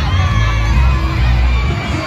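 Crowd shouting and cheering, many voices at once, over a steady low rumble.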